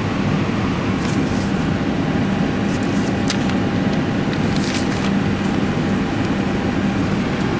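Steady hum and rush of air in an Airbus A319 cockpit with the auxiliary power unit running, with a thin steady tone above it and a few faint clicks.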